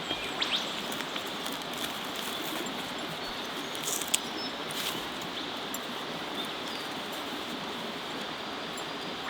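Creek water flowing in a steady, even rush, with a few faint bird chirps.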